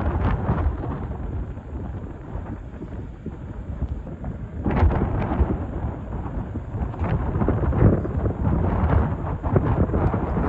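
Excavator digging rock: its engine running under load with heavy, irregular knocks and crunching of rock, louder from about five seconds in.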